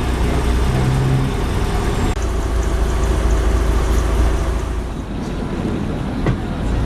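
A large vehicle running with a deep, steady engine rumble, easing a little about five seconds in.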